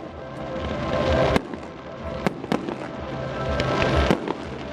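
Aerial fireworks bursting: a series of sharp bangs, the loudest about a second and a half in and again just after four seconds, over a continuous crackle and low rumble.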